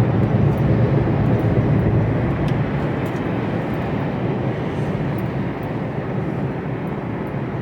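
Steady engine and road noise heard inside the cab of a Mercedes Actros lorry while driving, a low, even rumble with a broad hiss of tyres and wind above it.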